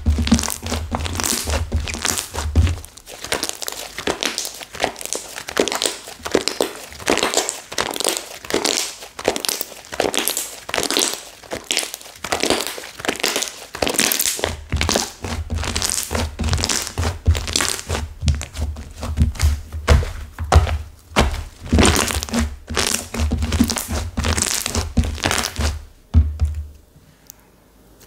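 Stiff, over-hardened clay slime being squeezed and pressed by hand: dense, irregular crackling and clicking with dull thumps against the surface. The handling stops about two seconds before the end.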